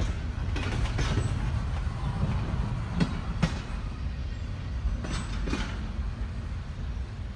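Norfolk Southern freight train moving away after its last car has passed: a low rumble with pairs of wheel clicks over rail joints every couple of seconds, slowly fading.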